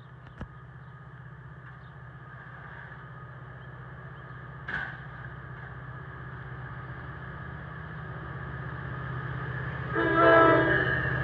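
NJ Transit ALP-45DP locomotive approaching, its steady low drone growing slowly louder, then sounding its horn in one short blast about ten seconds in.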